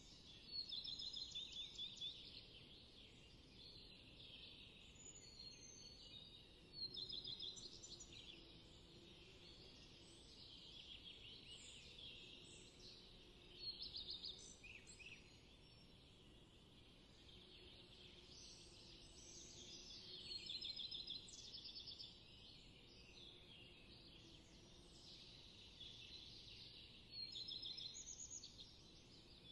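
Faint songbirds singing: one bird repeats a short trilled song about every six or seven seconds, five times, with other chirps and calls between.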